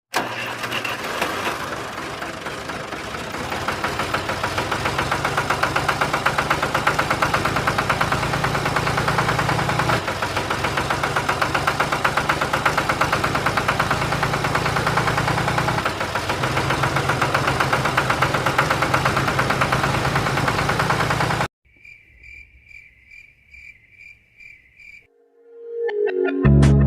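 Small electric toy motor of a homemade miniature tractor, running with a fast buzzing rattle and a steady low hum for about twenty seconds, then cutting off suddenly. A short series of faint, evenly spaced high beeps follows, and music starts near the end.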